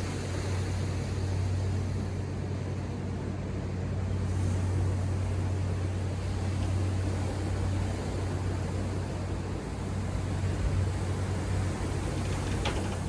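Ocean surf as a steady wash of noise, with a steady low hum underneath and a brief high sound near the end.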